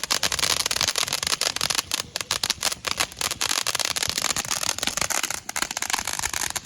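Fireworks crackling: a dense, uneven run of many small sharp pops, with no big booms.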